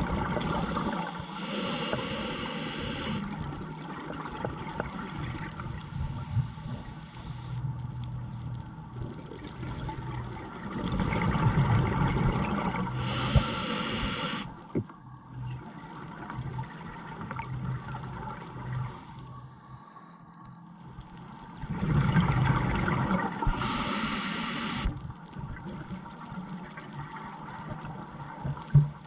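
A scuba diver breathing underwater through a regulator: a steady low bubbling rumble, broken three times, about every eleven seconds, by a hissing burst of exhaled bubbles.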